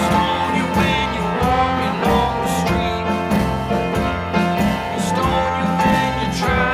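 A band playing an upbeat rock tune with trombone, guitar and a steady drum beat.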